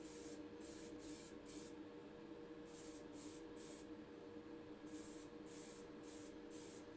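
Faint hiss of a Motip gloss varnish aerosol spray can, given in short quick bursts, about two a second, with pauses near two and four seconds in. A low steady hum runs underneath.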